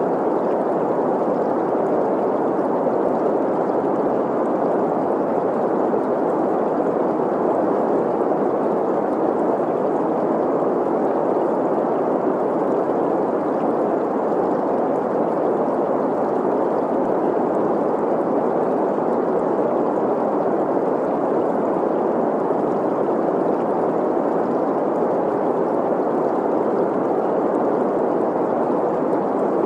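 Steady green noise, an even hiss centred on the middle frequencies, blended with the sound of a flowing stream, unchanging throughout.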